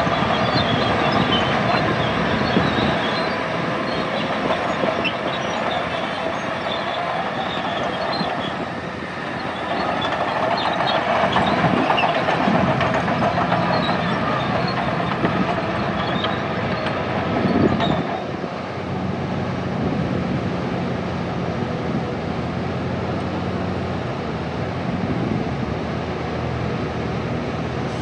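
Bulldozer at work: diesel engine running steadily under load with a rattling clatter from its steel tracks, which eases about two-thirds of the way through, leaving a steadier engine hum.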